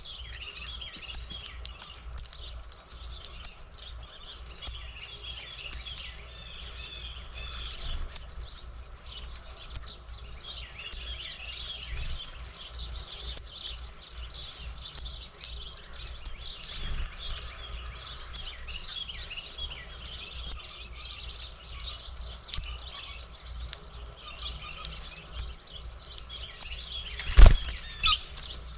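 Many small birds chirping and twittering at a bird feeder. A sharp, loud chip or tick comes every second or two, and there is one thump near the end.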